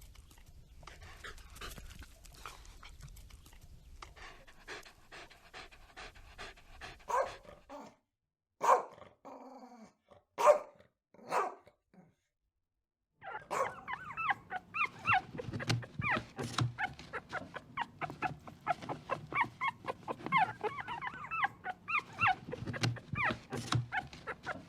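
Dogs vocalizing across a few cut-together clips. First comes quiet, busy dog sound, then about three loud separate barks or yelps around the middle with silence between them. After a brief pause, a long run of rapid short, pitched calls follows.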